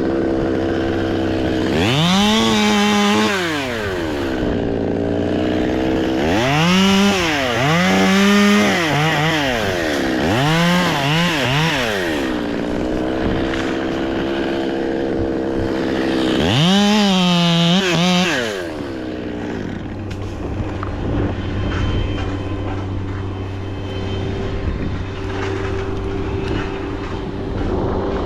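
Two-stroke chainsaw revving to full throttle several times and dropping back to idle between. After about twenty seconds it settles into a quieter, steady running sound.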